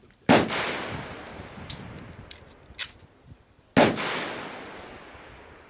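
Glock 22 Gen4 .40 caliber pistol firing two slow, single shots about three and a half seconds apart, each followed by a long echo that fades away. Fainter sharp clicks come in between the shots.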